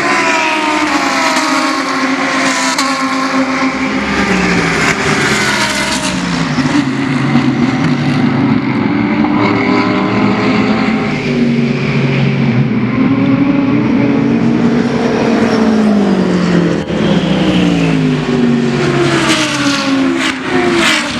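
Several GT3 race car engines running hard on track, overlapping, their pitch falling as they brake and lift and rising again as they accelerate through the gears.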